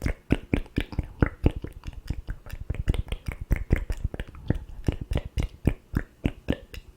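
ASMR mouth sounds made close to a sensitive microphone: a quick, irregular run of wet clicks and pops from the lips and tongue, several a second.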